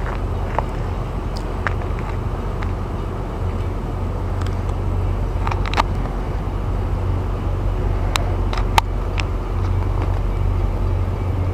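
An engine idling: a steady low hum, with a few sharp clicks at irregular moments.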